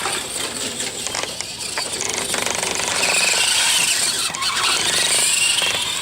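Electric RC car's motor and gears whining as it is driven, the pitch rising and falling with the throttle: up through the first half, dropping a little past the middle, then rising again near the end.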